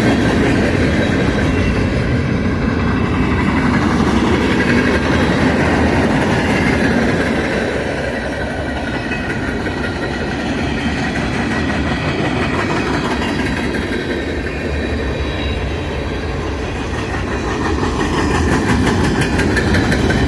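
The cars of a long Union Pacific train rolling past at close range, a steady rumble with wheels clattering over the rail joints and a run of quick clicks near the end.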